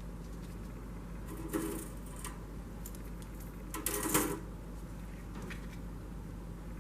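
Two short bursts of light clicking and rattling, about a second and a half in and again about four seconds in, over a steady low hum.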